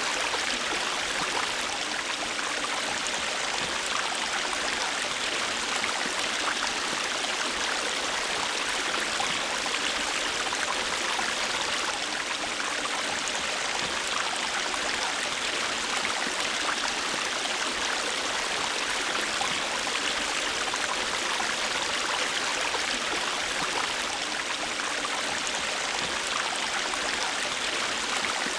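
River water rushing and babbling over rocks in a steady, unbroken stream.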